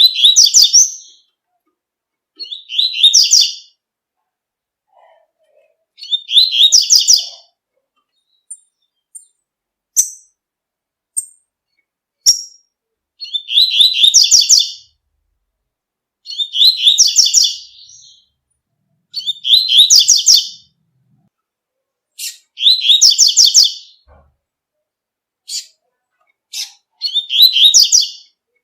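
A coleiro, the double-collared seedeater, singing the tui-tui song: a short, high, rapid trilled phrase of about a second, repeated every two to three seconds, with a few single sharp chips between the phrases.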